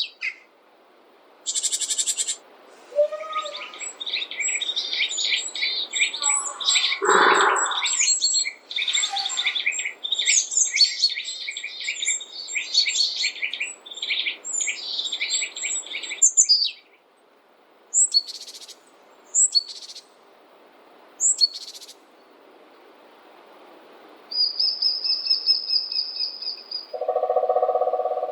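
Several birds chirping and singing. A dense run of rapid, high twittering fills the first half, with a lower call breaking in about 7 s in. Scattered single chirps follow, then a high trill and a short lower-pitched call near the end.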